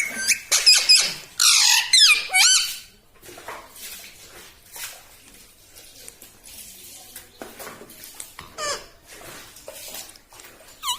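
Pet ring-necked parakeet making loud, high squeaky calls that slide up and down in pitch for the first few seconds. It then keeps up softer clicking and chattering, with one brief louder call near the end.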